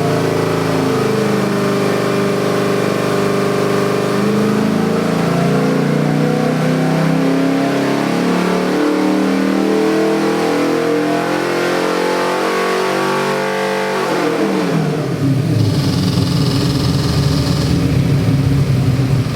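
Ford 427 Windsor stroker V8 with multi-port fuel injection running at high revs on an engine dyno. About 14 seconds in the revs fall away steeply and it drops to a lower, uneven idle.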